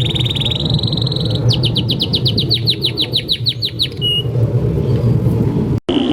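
Canary song: a fast, rapid trill that changes after a second and a half into a slower run of quick descending notes, about eight a second, then a single short note. The song breaks off abruptly near the end before a trill starts again, over a steady low background rumble.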